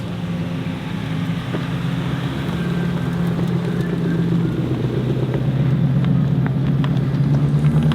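An engine running at a steady pitch, growing gradually louder, with some wind noise.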